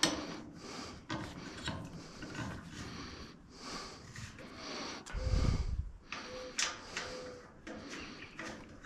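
Scattered light clicks, scrapes and rubbing of parts being handled and fitted during hand assembly of a fuel caddy, with a dull low thump a little over five seconds in.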